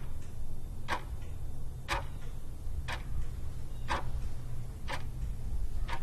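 Electric fuel pump ticking about once a second while priming the fuel system, over a steady low rumble.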